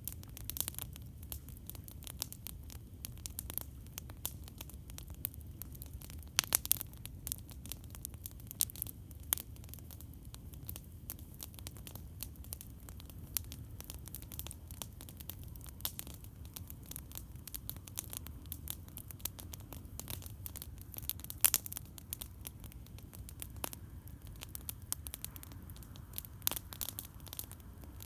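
Campfire crackling: irregular sharp pops and snaps of burning wood, a few louder ones standing out, over a steady low rumble.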